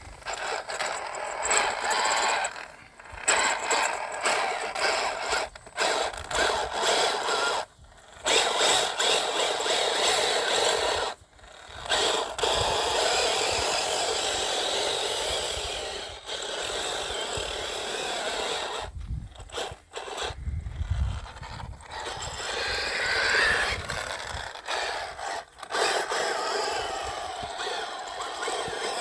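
Losi Baja Rey 1/10 electric RC trophy truck running over dirt, its drivetrain and tyres making a grainy, scratchy noise that breaks off abruptly several times.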